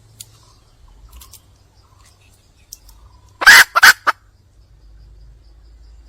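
Wild junglefowl hen calling: one short, loud burst of three quick notes about three and a half seconds in.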